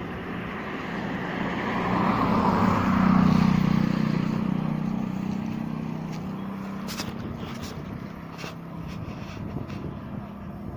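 An engine passing by, growing louder to a peak about three seconds in and then fading away, with a few sharp clicks near the end.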